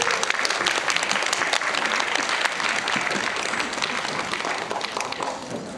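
An audience applauding, the clapping gradually dying down toward the end.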